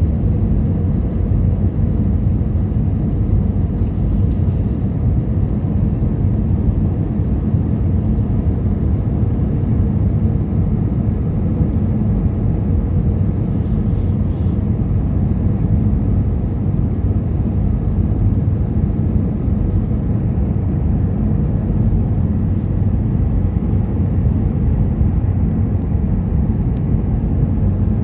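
Steady cabin noise inside an Airbus A320: engines and airflow as an even low rumble with a faint hum.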